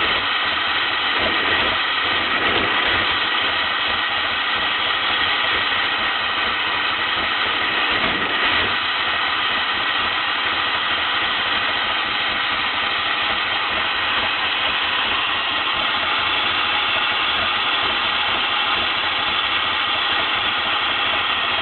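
DeLorean DMC-12's PRV V6 engine running steadily at idle or light throttle, with a slight swell about eight seconds in.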